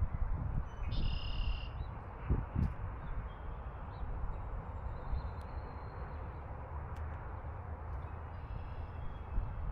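Steady outdoor background rumble with a short bird call about a second in and a fainter one near the end, and a couple of soft low thumps.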